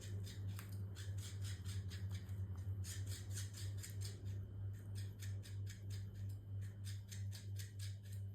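Cat's fish toy: rhythmic scratchy ticks, about four to five a second, over a steady low hum.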